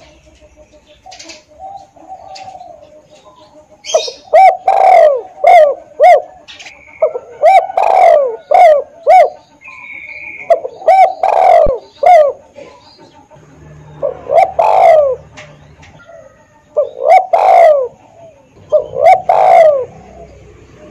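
Spotted dove (tekukur) cooing in repeated phrases of several loud, rolling coo notes, with short pauses between the phrases.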